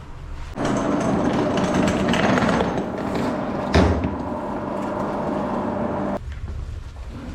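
A motor-driven machine runs for about five and a half seconds with a steady hum and rattle, starting and cutting off abruptly, with one sharp knock about halfway through.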